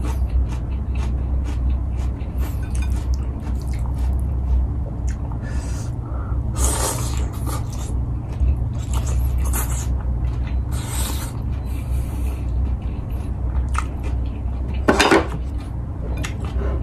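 Close-miked eating by hand: chewing, lip smacking and finger licking, with many small wet clicks and a few louder smacks, over a steady low hum.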